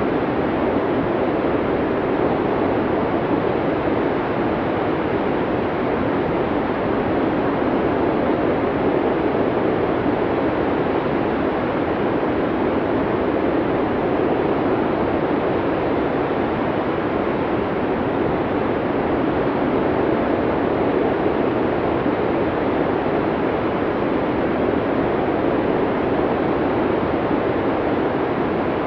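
Blizzard wind blowing at a steady, even level, a dense rushing noise with no gusts or breaks.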